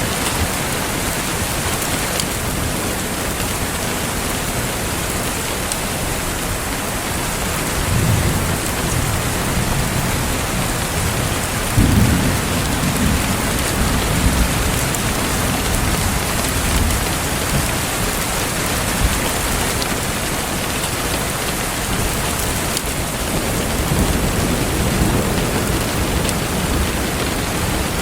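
Steady rain falling, with low rolls of distant thunder swelling up about 8 seconds in, more strongly around 12 seconds, and again near the end.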